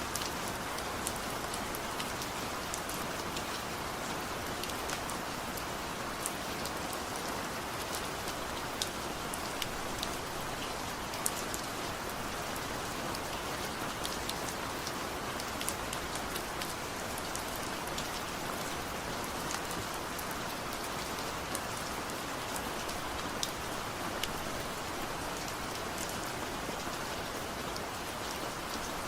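Steady rain falling, an even hiss with scattered individual drops ticking sharply on a surface; no thunder.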